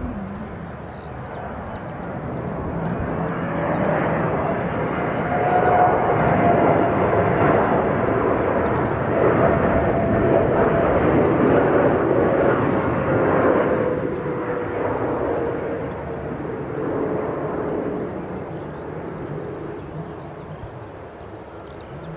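Boeing 787 Dreamliner's twin turbofan engines as it flies past: a jet rumble that swells over several seconds and then fades, with a whining tone that slowly falls in pitch as the plane goes by.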